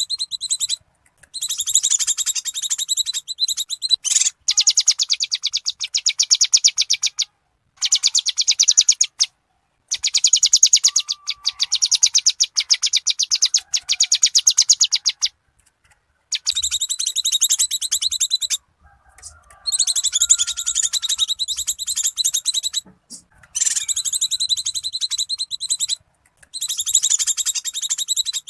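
Cucak kinoi lure recording: bursts of rapid, high chattering notes, each run lasting about one to three seconds with short breaks between. These are the agitated 'ribut' (noisy) calls used to lure wild kinoi.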